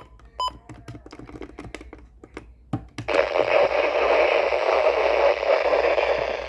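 Weather radio receiver on very poor reception: the static hiss cuts out at the start, leaving scattered clicks and crackles with two short beeps, then the static returns about three seconds in.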